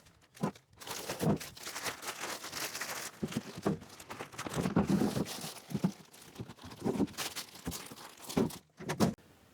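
Irregular knocks, clunks and scraping of heavy engine parts (an LS short block and cylinder heads) being handled and loaded into a pickup bed.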